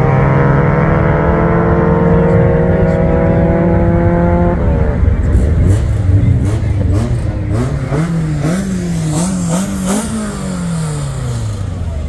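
Car engine at full throttle, its pitch climbing steadily for about four and a half seconds before dropping away. It is followed by an engine revved up and down several times, with a string of sharp cracks.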